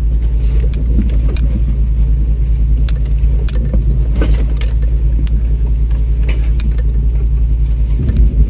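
Off-road 4x4's engine running steadily at low revs as it crawls over rocks, with scattered knocks and clicks from the rocks and the body jolting. Near the end comes a heavier low knock from underneath, the skid plate meeting rock.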